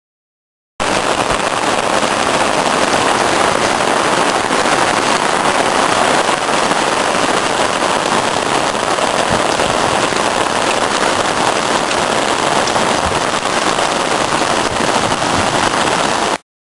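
Thunderstorm rain pouring down steadily, a dense, even hiss. It starts abruptly about a second in and cuts off suddenly near the end.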